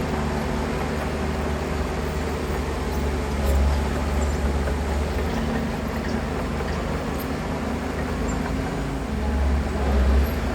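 Heavy diesel engine of earthmoving machinery running steadily with a deep drone. It swells louder twice, about three and a half seconds in and again near the end, as it works under load.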